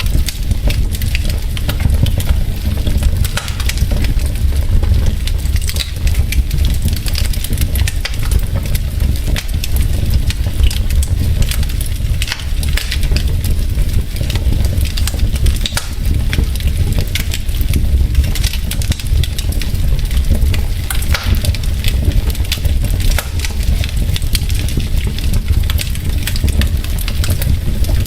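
Wood fire burning in a fireplace: logs crackling with frequent, irregular sharp pops and snaps over a steady low rumble.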